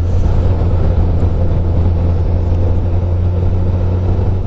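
Motorcycle engine running steadily at riding speed, a constant low drone with road and wind noise mixed in.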